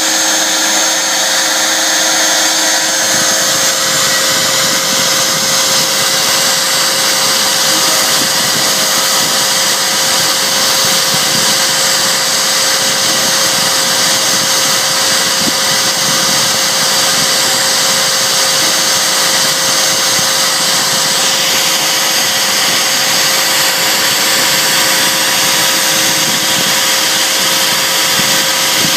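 CNC router spindle running and routing inlay work in a guitar's wenge top: a steady, even machine noise with steady tones over a hiss, shifting slightly about 21 seconds in.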